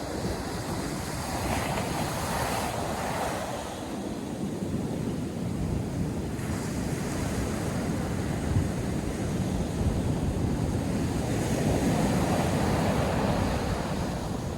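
North Sea surf breaking and washing continuously, swelling louder about two seconds in and again near the end, with wind buffeting the microphone.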